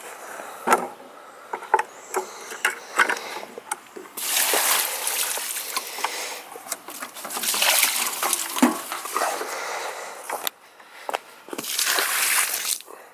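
Water splashing onto the garden while it is watered, in three bursts of a few seconds each, with scattered clicks and knocks between them.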